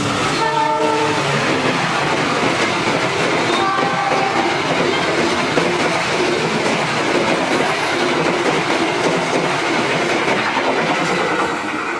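A train passing through a station: the steady, loud rush and rumble of railway carriages running over the rails.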